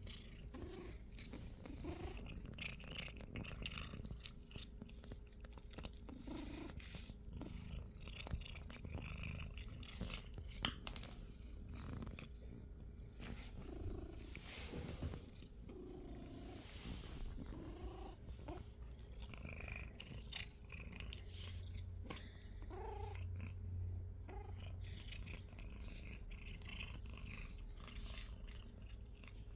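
Pet cat purring steadily while crunching dry cat treats, with short crisp clicks of chewing scattered through.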